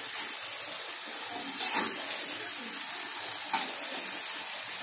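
Young jackfruit pieces and spice paste frying in an aluminium wok: a steady sizzle as they are stirred, with the metal spatula knocking against the pan twice.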